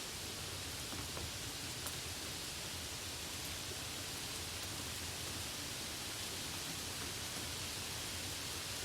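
Steady rain falling: an even, unchanging hiss with a few faint single drop ticks, one just before two seconds in.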